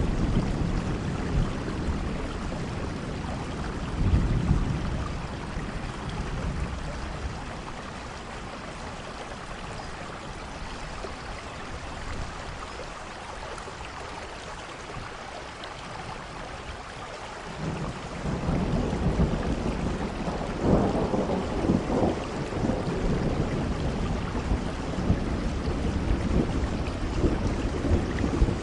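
Steady rainfall with low rumbles of rolling thunder, which die down through the middle and build again about two-thirds of the way through.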